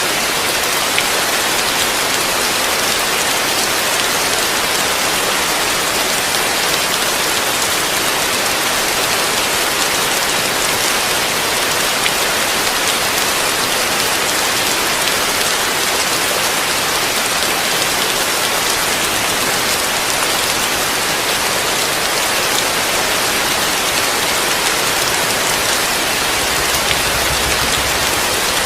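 Heavy rain falling steadily on a roof, a dense, even hiss that does not let up.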